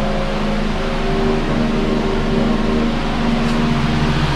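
Steady mechanical hum with a whirring noise and a few steady low tones underneath.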